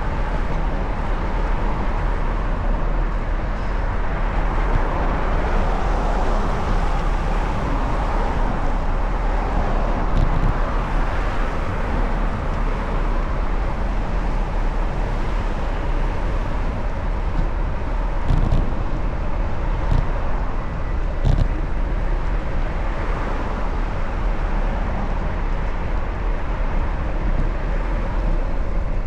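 Steady traffic and road noise with wind rumbling on the microphone of a moving bicycle, and a few faint knocks past the middle.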